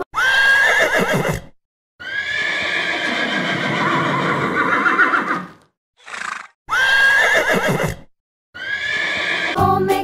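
A horse whinnying several times, each call opening on a high wavering pitch, with short silent gaps between the calls.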